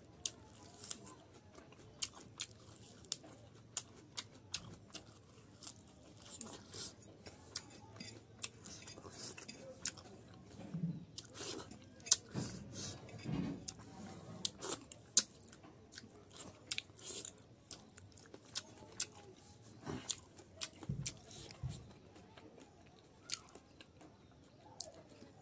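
A person chewing and eating close to the microphone, with frequent short wet mouth clicks and smacks.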